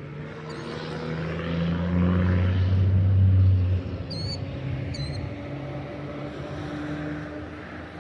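A motor engine drones steadily at a low pitch. It grows louder for about four seconds, drops off sharply, then carries on more faintly. A few short high bird chirps sound over it.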